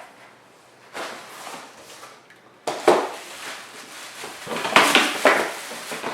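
Hard plastic parts of a Hoover FloorMate Edge floor cleaner being handled: a series of sharp knocks and clicks, loudest about three seconds in, with a cluster of them near five seconds.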